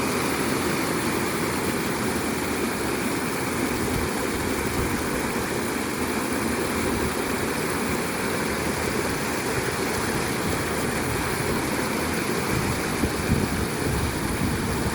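Steady rushing of flowing runoff water, an unbroken even roar without pauses.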